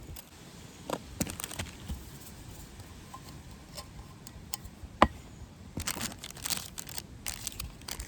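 Small objects being handled: scattered light clicks and knocks, one sharp click about five seconds in, and bursts of rustling near the end.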